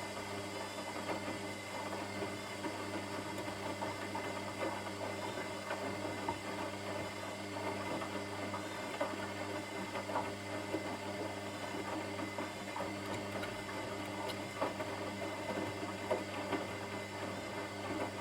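A washing machine running: a steady motor hum with light, irregular clicks and patter from the drum over it.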